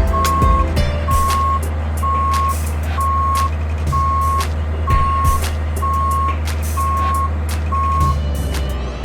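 Boom lift's motion alarm beeping about once a second over its engine running steadily, with irregular knocks and clatter.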